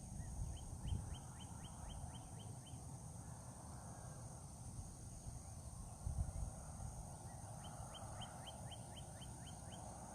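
A bird singing two runs of quick repeated notes, each note dropping in pitch, about five a second. One run is near the start and one near the end, over a steady high insect hum and low wind rumble on the microphone.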